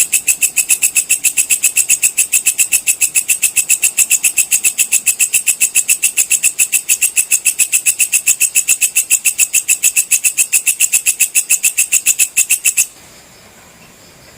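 Walang kecek, a katydid, calling in a fast, even train of sharp high chirps, about seven a second. The call stops abruptly near the end.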